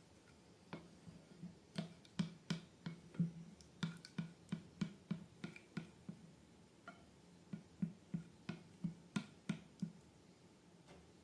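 Slime being worked by hand, giving a run of soft, irregular clicks and pops, about two or three a second, that stop shortly before the end.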